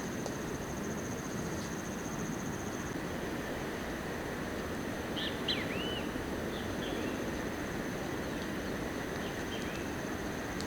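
Forest ambience: a steady hiss under a continuous high insect trill, with a few short bird chirps about halfway through.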